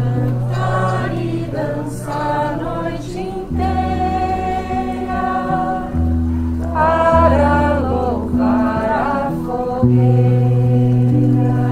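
A group of voices singing together over steady held low instrumental notes, the chord shifting every few seconds.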